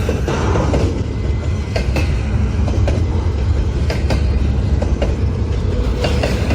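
Long intermodal freight train rolling past: a steady low rumble of wheels on rail, with sharp clicks about every second or so as wheels cross rail joints.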